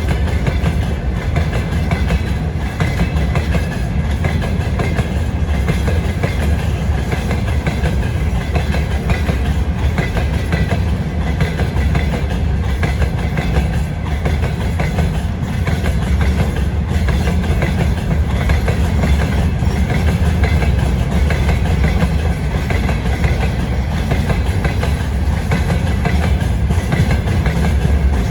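Freight train cars rolling past, their wheels clattering over the rail joints in a steady, loud rumble.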